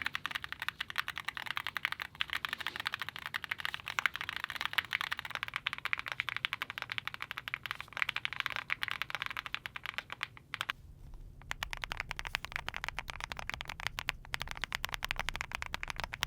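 Fast, continuous typing on a mechanical keyboard fitted with Monstargear Cupid linear switches, in a full-aluminium Nemo67 case with Createkeebs Great Wall keycaps. There is a brief pause a little over ten seconds in, then the typing resumes.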